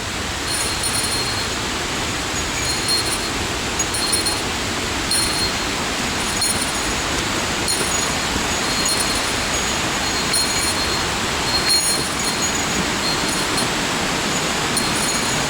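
Steady rush of water from a mountain stream or waterfall. Over it, a small bell, likely a hiker's bear bell, gives short high jingles roughly once a second.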